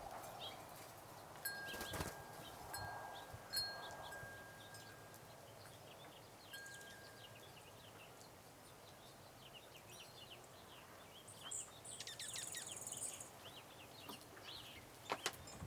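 Small birds chirping and calling at a snowy feeding spot, with a clear chime-like tone ringing steadily for a few seconds early on and again briefly near the middle.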